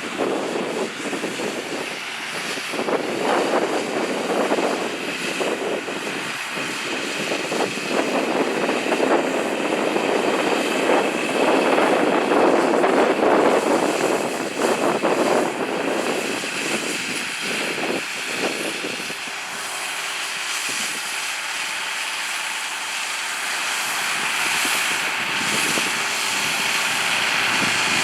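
John Deere 8300 tractor's six-cylinder diesel engine running as it pulls a cultivator, a continuous rushing drone that grows louder around the middle, then settles into a steadier, more even hum in the last third.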